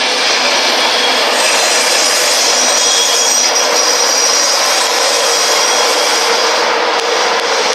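InterCity 225 express, a Class 91 electric locomotive with Mk4 coaches, passing close by at speed. It makes a steady, loud rush of wheels on rail with thin high-pitched tones over it.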